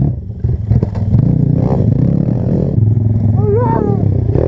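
Pit bike engine running hard as the bike climbs a sandy bank. A drawn-out, wavering shout cuts in near the end.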